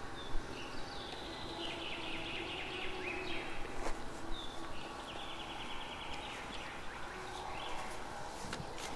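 Small birds singing in short warbling phrases, one of them a fast even trill a little past the middle, over steady outdoor background noise.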